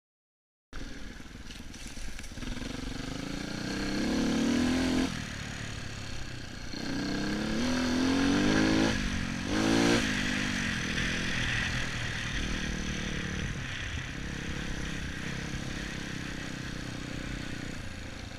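Dirt bike engine revving up and down several times, loudest around the fourth and ninth seconds, then running more steadily, with noise of wind and riding throughout. It starts suddenly out of silence shortly after the beginning.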